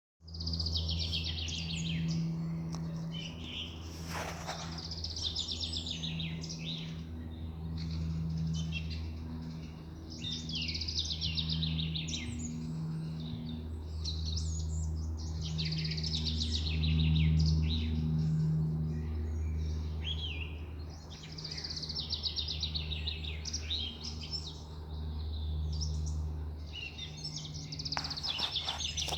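Songbirds singing in short repeated phrases every couple of seconds, over a low steady hum.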